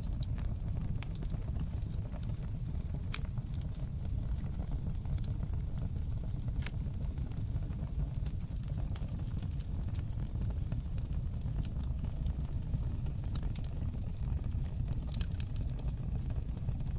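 Wood fire crackling in a fireplace: a steady low rumble of the flames under frequent small, irregular pops and crackles, with a few sharper pops about three seconds in, near seven seconds and near fifteen seconds.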